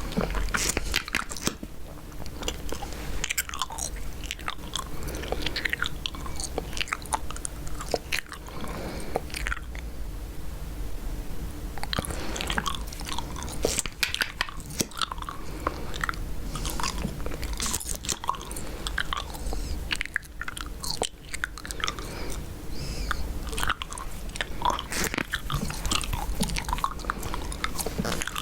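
Chewing gum close to the microphone: a steady run of wet, irregular mouth smacks and clicks.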